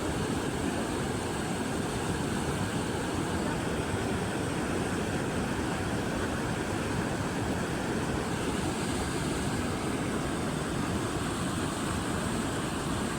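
Steady rushing of a river or waterfall, an even, unbroken roar of water at a constant level.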